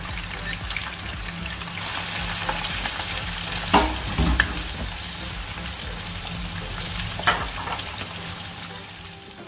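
Dried anchovies sizzling in hot oil in a wok as they are stirred with a wooden spatula, with two sharp knocks along the way. The sizzle eases off near the end.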